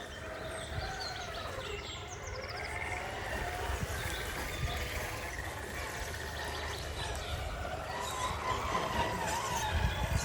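1/10-scale RC rock crawler's electric motor and geared drivetrain whining, the pitch wandering up and down as the throttle is worked, over a steady low rumble.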